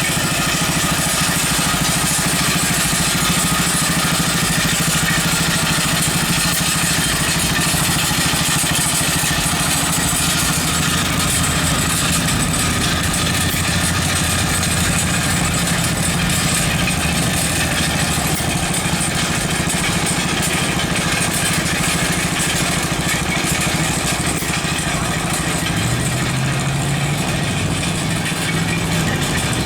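Small engine of a homemade little tractor running steadily; about 26 seconds in its pitch steps up and holds for a few seconds as it speeds up.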